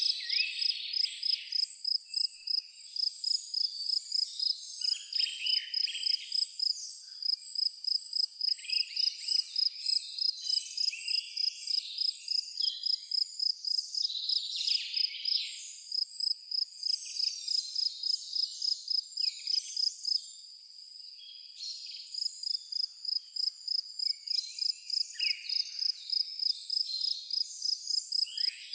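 A cricket chirping in a steady rhythm, about three chirps a second, stopping for a couple of seconds about two-thirds of the way through. Scattered songbird calls sound over it.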